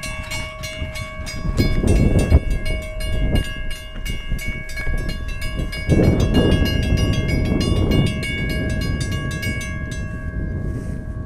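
NJ Transit passenger train passing close by, its air horn holding one long chord over a rapid, even clicking of wheels over the rail joints and heavy low rumbling. The clicking stops about ten seconds in while the horn sounds on.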